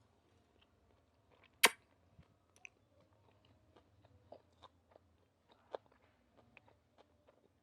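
A person chewing a chicken bun with crunchy vegetables, close to the microphone: small wet clicks and crunches scattered irregularly throughout. One much louder sharp click about a second and a half in stands out above the chewing.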